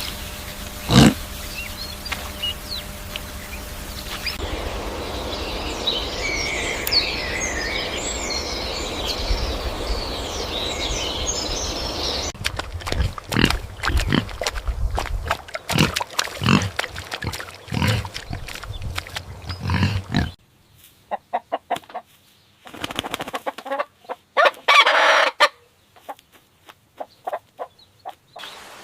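Chickens clucking and calling, with a stretch of high twittering chirps in the middle and a run of short, sharp sounds in the second half, broken by abrupt cuts.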